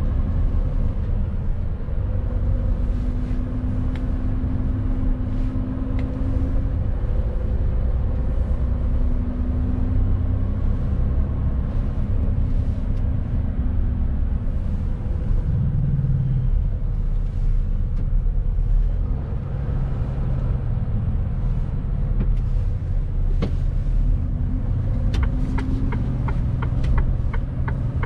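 Mercedes-Benz Actros truck under way, loaded to about 19 tons: a steady low engine and road rumble whose engine tone shifts in pitch. Near the end a regular clicking starts, about two to three clicks a second.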